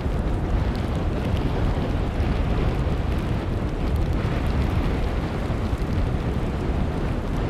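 Strong blizzard wind blowing hard against the microphone: a steady rushing noise with a heavy, fluttering low rumble of buffeting.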